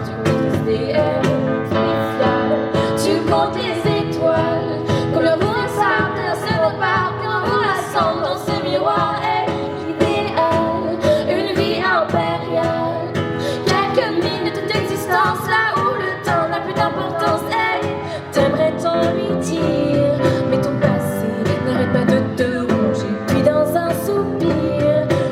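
A pop song performed live: a female voice sings over a steady instrumental backing with a beat.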